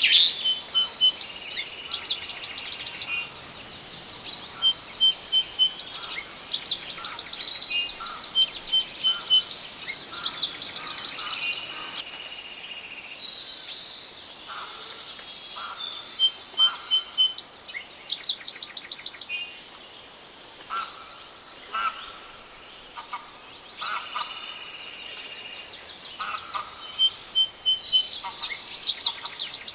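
Several forest songbirds singing at once, a chorus of overlapping trills, chirps and short runs of repeated high notes, over a faint steady hiss of background.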